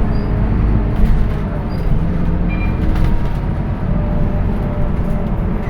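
Scania K230UB city bus under way, its diesel engine and ZF automatic gearbox giving a steady low drone with a faint whine, and a few short knocks and rattles from the body.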